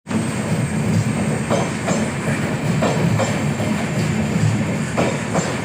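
Passenger train running on the rails: a steady heavy rumble with the wheels clacking over rail joints, the clacks often coming in pairs.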